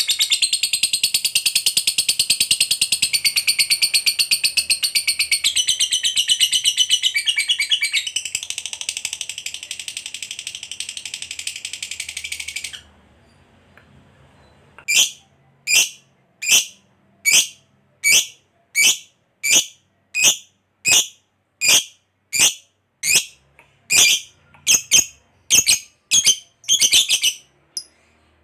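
Lovebird giving its long 'ngekek' call: a fast, high-pitched rattling trill that runs about thirteen seconds and stops abruptly. After a short pause it gives a string of sharp single chirps, about one and a half a second.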